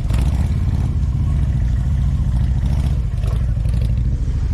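Motorcycle engine running with a steady low rumble and a few light clatters.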